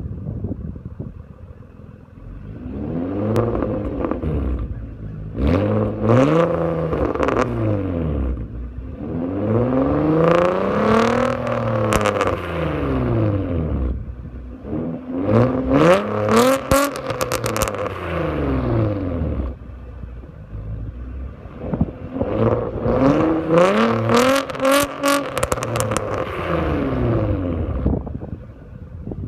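Nissan Altima SE-R's 3.5-litre V6 revving through a Mossy cat-back exhaust with a catless Y-pipe and high-flow pre-cats: about five rises and falls in engine pitch with idling between, and sharp crackles near the top of several revs.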